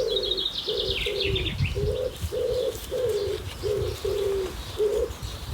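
A pigeon cooing: a steady run of about ten low coos, roughly two a second. A small bird chirps briefly over the first second and a half.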